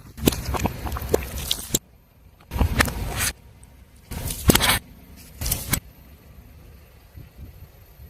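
Objects crunching and cracking under a car tyre as it rolls over them, in four bursts of crackling over a low rumble, quieter after about six seconds.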